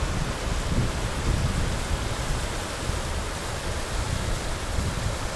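Wind buffeting the microphone in uneven gusts of low rumble, over a steady rushing hiss.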